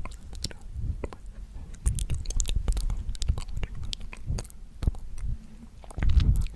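Close-miked ASMR mouth sounds: a quick, irregular run of wet clicks and smacks, with soft breathy surges about two seconds in and near the end.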